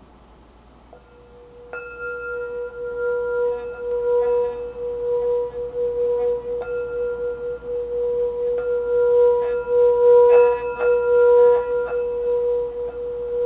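Singing bowl sounding one steady, wavering tone that starts about a second in and is renewed by several light strikes along the way.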